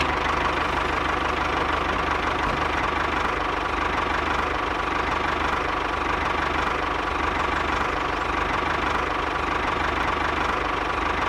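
Small motor of a homemade mini tractor running steadily, with a fast, even knocking chug that holds constant.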